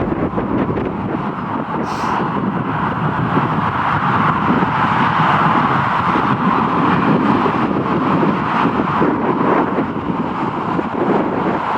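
Steady jet aircraft engine noise, swelling toward the middle and easing slightly near the end, with wind buffeting the microphone.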